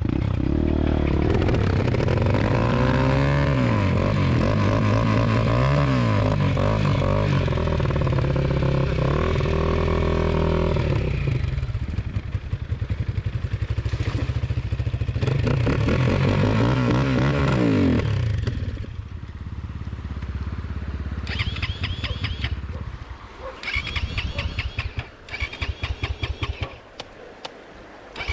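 250 cc dirt bike engine revving up and down repeatedly, dropping off about eighteen seconds in. It then runs in short, uneven bursts near the end.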